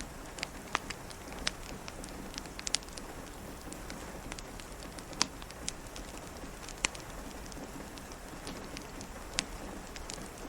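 Steady rain pattering, with a wood fire crackling: about a dozen sharp pops at irregular intervals over an even hiss.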